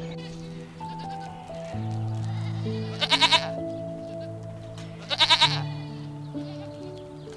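Goat bleating twice, two short wavering bleats about two seconds apart, over soft background music.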